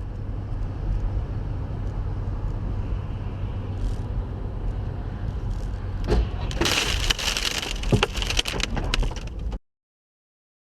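Dashcam audio of a car on the road: a steady low rumble of engine and road noise. About six seconds in comes a collision, a cluster of loud impacts with cracking and crunching that lasts about three seconds, and the sound cuts off suddenly.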